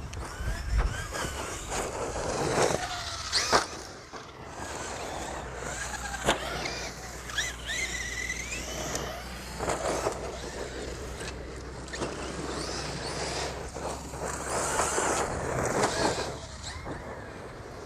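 Electric 1/8-scale RC monster truck driving, its motor whining up and down in pitch as the throttle comes on and off, over a rush of tyre and wind noise, with a couple of sharp knocks a few seconds in.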